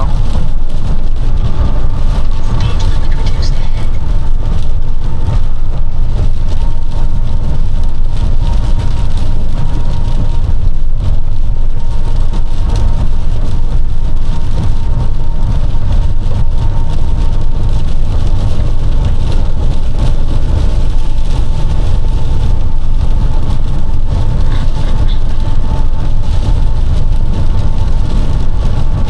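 Steady, loud low rumble of a box truck driving in strong wind, heard from inside the cab: engine, tyre and wind noise blended together, with a faint steady whine running through it.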